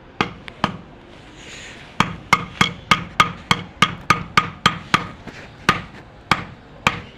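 A blade chopping on a wooden block. The sharp strikes each carry a short metallic ring. Two come first, then a steady run of about three a second starts about two seconds in and grows sparser near the end.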